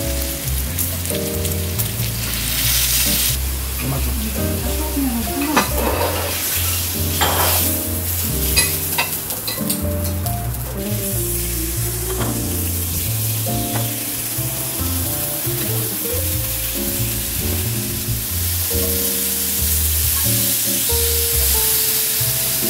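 Sliced pork belly sizzling and frying in a hot pan, the sizzle louder a couple of seconds in and again toward the end, under background music.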